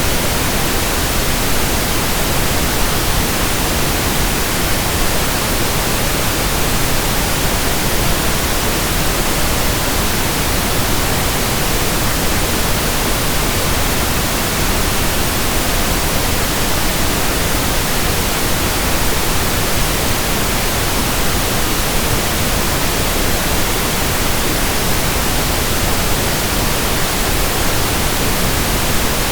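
Pink noise: a steady, even hiss that does not change.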